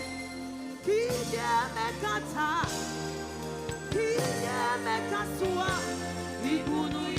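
Gospel worship music: a singer's voice running through melismatic phrases over sustained keyboard chords and bass.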